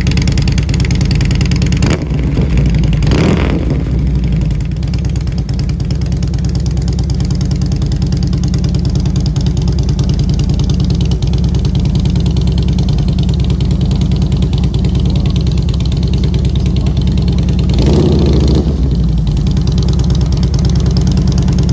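2007 Harley-Davidson V-twin engine idling steadily, with two brief swells in engine sound, one about three seconds in and one near the end.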